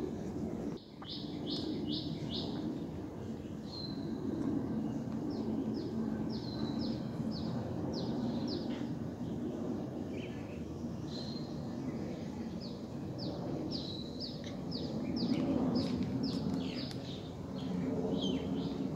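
Birds calling: short, sharp downward-sweeping chirps in quick runs of three to five notes, with a few longer held whistles, over a steady low rumble that swells and fades a little.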